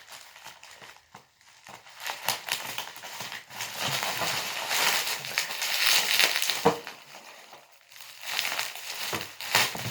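Plastic bubble wrap crinkling and rustling as it is pulled and unwrapped by hand, in irregular handling noise with a short lull near the end.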